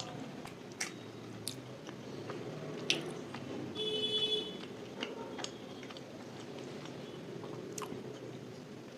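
Close-miked chewing of soft food, with scattered small wet mouth clicks. A brief high-pitched tone sounds about four seconds in.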